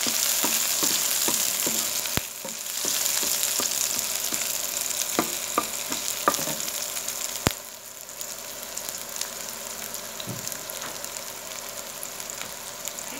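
Onion and garlic sizzling in hot oil in a nonstick wok while a wooden spoon stirs them, with many small ticks and scrapes of the spoon. Two sharp knocks come about 2 and 7.5 seconds in, and the sizzle grows quieter about 8 seconds in.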